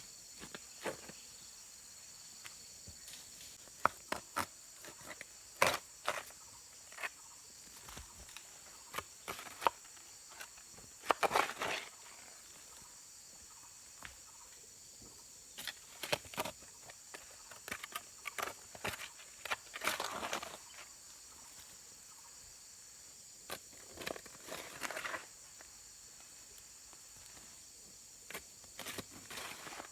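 Steady high-pitched chirring of insects, with scattered knocks, clicks and short rustling or scraping bursts from someone working close by.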